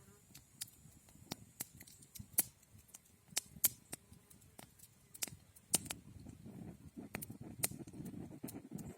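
Wood crackling and popping in a campfire, with irregular sharp snaps. A low rushing sound joins in from about two-thirds of the way through.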